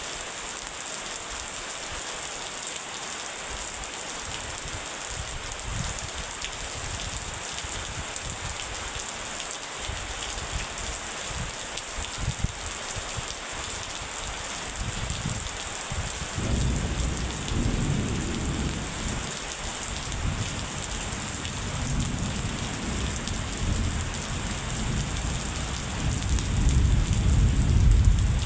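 Steady heavy rain hissing. About halfway through, deep rolling thunder begins and swells, loudest near the end.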